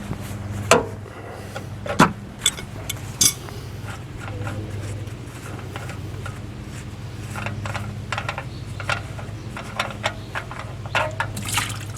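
Metal hand tools clinking and scraping in a scatter of short sharp knocks, over a steady low hum.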